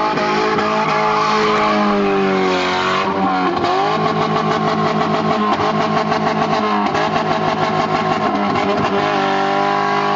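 Ford Sierra engine held at high revs while the rear wheels spin through a donut. The revs dip and recover about three seconds in, then the note pulses rapidly for several seconds before steadying again.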